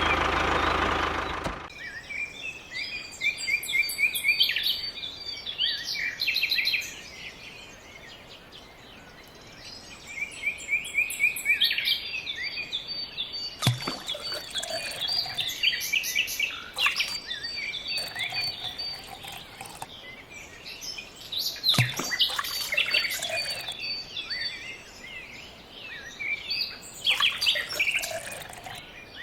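Small birds chirping and twittering in repeated bursts of short high calls, with a couple of sharp clicks in between.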